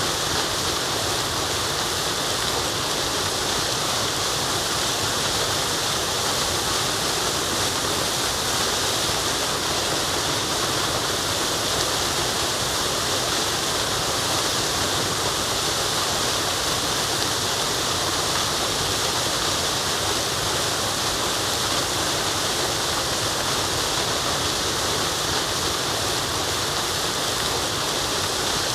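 Waterfall: steady, even rush of falling water with no breaks or changes.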